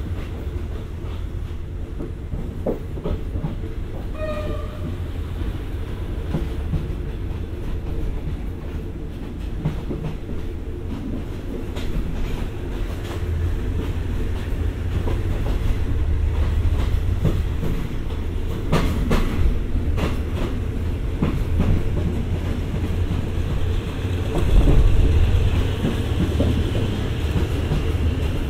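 State Railway of Thailand passenger train running, heard from inside the carriage: a steady low rumble of wheels on rail with clickety-clack over the joints, a few sharper clanks past the middle and a louder stretch near the end.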